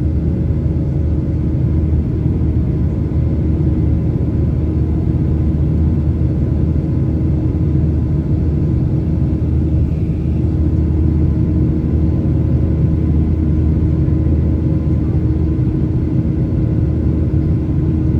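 Steady low rumble inside the cabin of a Boeing 737 airliner in flight: jet engine and airflow noise, with a faint steady hum.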